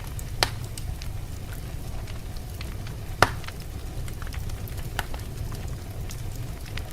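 Wood fire crackling, with scattered sharp pops, the loudest about half a second and three seconds in, over a steady low rumble of wind.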